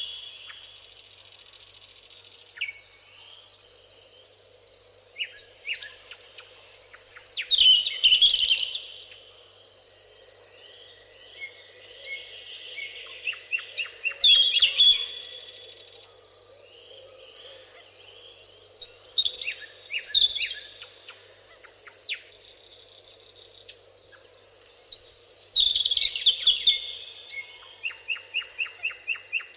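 Several songbirds singing in a summer meadow, with phrases and trills coming every few seconds, and a quick series of repeated notes near the end. Short bursts of high insect buzzing recur every several seconds.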